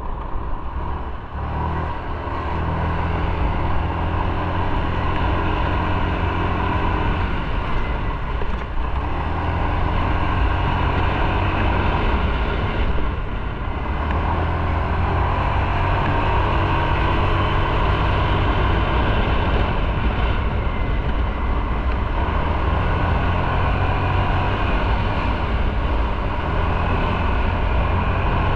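Motorcycle riding along: the engine running steadily under wind and road noise, its note stepping up and down a few times.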